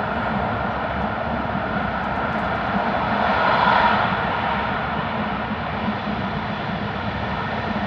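Interior running noise of an E5 series Shinkansen travelling through the Seikan Tunnel: a steady rushing rumble of wheels on rail and air in the tunnel, heard from inside the passenger car. The noise swells briefly about three and a half seconds in, then settles back.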